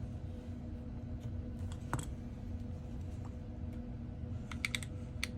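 Small sharp clicks of metal hand tools against the phone's internal parts: a single click about two seconds in and a quick cluster of ticks near the end, over a steady low electrical hum.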